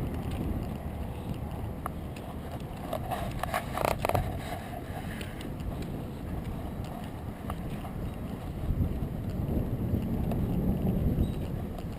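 Wind buffeting the microphone outdoors, a continuous uneven low rumble. A brief patch of clicking and rattling comes about three to four seconds in.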